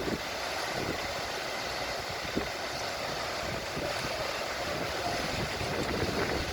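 Concrete pump truck and cement mixer truck running steadily, a continuous engine noise with faint irregular low knocks.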